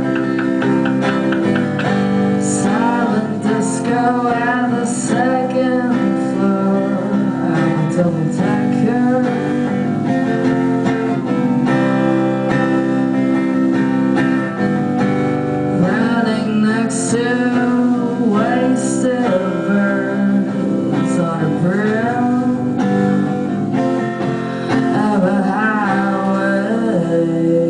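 A band playing a song live: strummed guitars with held notes, and a singing voice that comes in and out.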